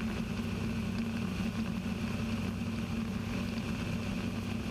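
Rotax 582 two-stroke engine of a Kitfox IV light aircraft droning steadily in flight.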